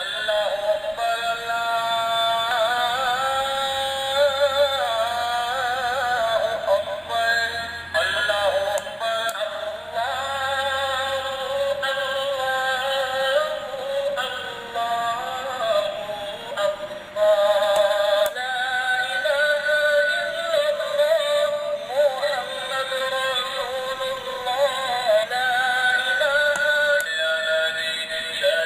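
An azan (Islamic call to prayer) sung by a man in long, wavering, ornamented phrases with short breaks between them, played back by a chip-on-board sound IC. It sounds thin, with no low end.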